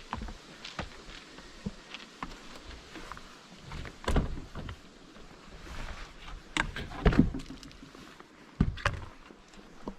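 Scattered knocks, clicks and thumps of footsteps and handled objects, with heavier thumps about four, seven and eight and a half seconds in.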